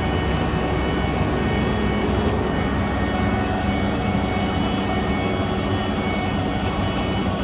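Heavy diesel paving machinery running steadily: a loud, even engine drone with a steady high whine over it.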